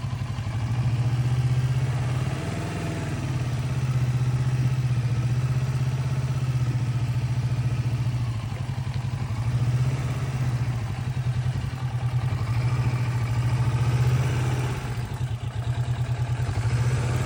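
Motorcycle engine running at low revs, its level rising and falling gently throughout.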